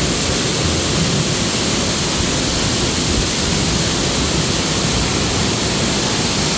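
Strong wind buffeting the microphone: a loud, steady rushing noise with a fluttering low rumble.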